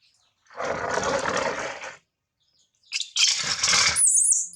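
Two loud rushes of splashing water during a newborn monkey's bath, each about a second long, followed near the end by the baby macaque's short, high squeal that rises and falls in pitch.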